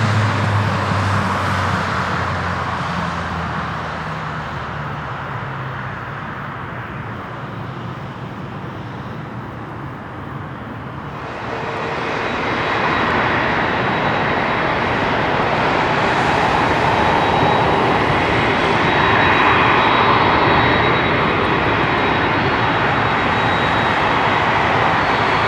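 A jet airliner's engines, an Embraer 190's, fading away from a loud low rumble. About 11 seconds in they give way abruptly to the steady whine and roar of a McDonnell Douglas MD-11F freighter's jet engines, which grow somewhat louder past the middle.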